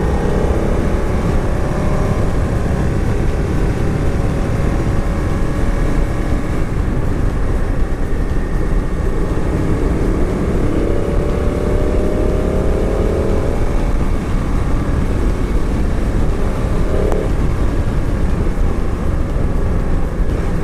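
Motorcycle riding along, heard from the rider's camera: steady wind rush over the microphone with the engine running beneath it, its pitch rising under acceleration a couple of times, most clearly about halfway through.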